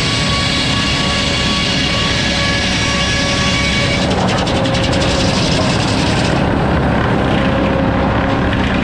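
Sawmill running and sawing, a loud steady mechanical sound with several steady ringing tones for the first four seconds or so. It then turns rougher, and the higher ring falls away about six and a half seconds in.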